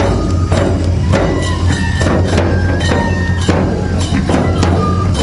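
Neputa festival music: big taiko drums beating a steady rhythm of about two strokes a second, with a bamboo flute playing a melody of short held notes above them.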